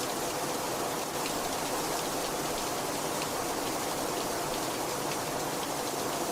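Heavy rain falling steadily, with scattered individual drops ticking on a surface.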